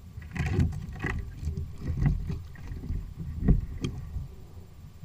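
Irregular knocks and thumps on a plastic Hobie kayak's hull and deck, about a dozen in a few seconds, some with a sharper click, as things are moved and bumped on board.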